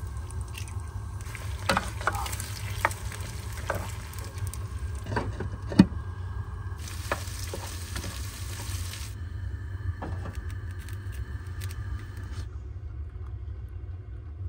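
Bacon, potatoes and eggs sizzling in a frying pan, with a spatula knocking and scraping against the pan as the eggs are scrambled; the sharpest knock comes about six seconds in. A steady low rumble runs underneath.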